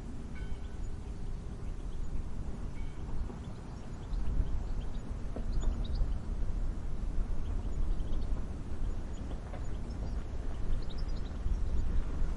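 Wind rumbling and buffeting, a low steady noise that grows stronger about four seconds in, with a few faint distant bird chirps.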